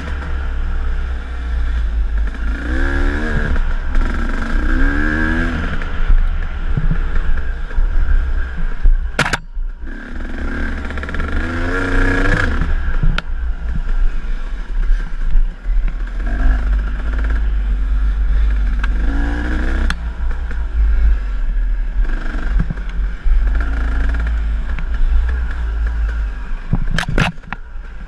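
Enduro dirt bike engine revving up and down over and over as it is ridden along a trail, with a steady low rumble underneath. Two sharp knocks cut through, about nine seconds in and again near the end.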